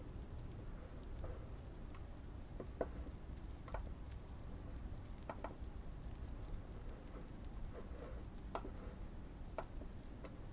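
Fireplace crackling: a steady low rumble with sparse, irregular pops and fine ticks.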